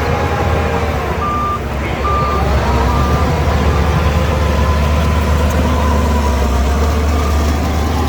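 Shantui DH17 C2 bulldozer's diesel engine running steadily, with a reversing alarm beeping three times in quick succession from about a second in.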